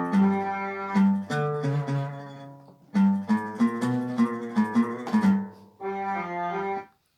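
Korg Pa600 arranger keyboard playing a melodic phrase of single notes on a sampled instrument voice from a Kronos sound set. There is a short lull partway through, and the playing stops just before the end.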